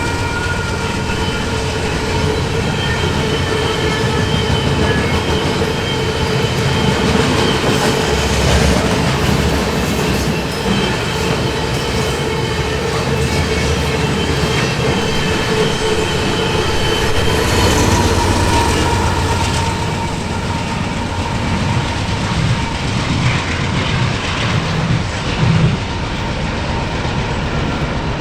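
Freight cars of a coil steel train rolling past, wheels clicking over the rail joints, with a steady high wheel squeal through much of the pass.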